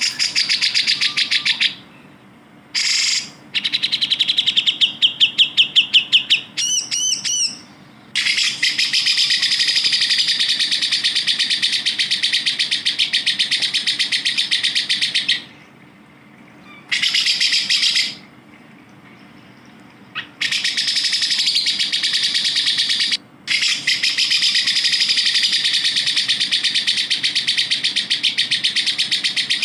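Cucak jenggot (grey-cheeked bulbul) song: very rapid, high-pitched trilling in long runs of several seconds each. The runs start and stop abruptly, and there is a short burst of faster up-and-down notes about seven seconds in.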